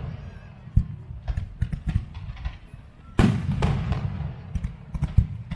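Fireworks display: aerial shells bursting in a string of sharp bangs, the loudest about three seconds in, its boom trailing off over about a second before more cracks follow.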